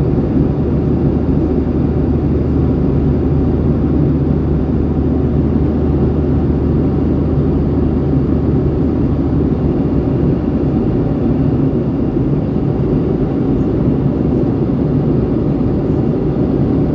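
Steady cabin noise of a Boeing 737-800 airliner in flight: a constant rushing hum of the engines and airflow heard from inside the cabin, with no change in level.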